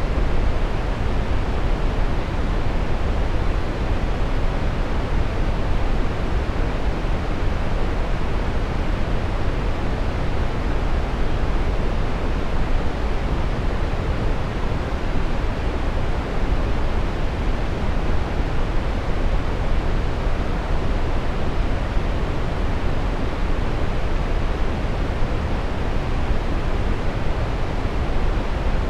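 Steady brown noise: an even, deep rushing hiss, strongest in the low end and falling off toward the highs, with no changes.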